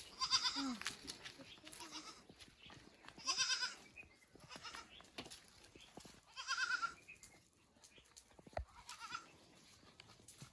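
Goats bleating: three loud, wavering bleats about three seconds apart, with a fainter one near the end.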